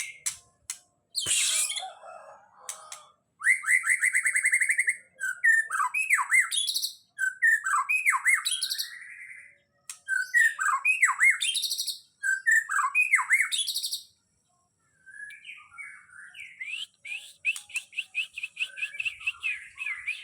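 Songbird singing hard and continuously in the 'gacor' manner prized by bird-keepers. Its phrases of rapid trills and repeated notes mix with sharp down-slurred whistles and high buzzy notes, with a short break about two-thirds through.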